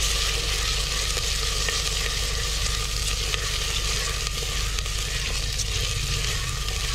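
Chopped tomatoes frying in hot oil in a clay handi as they are stirred with a spatula: a steady sizzling hiss with small crackles, over a steady low hum.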